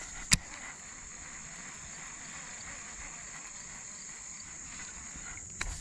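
Insects outdoors droning steadily at a high pitch. A sharp click or knock comes about a third of a second in, and another couple of clicks come near the end.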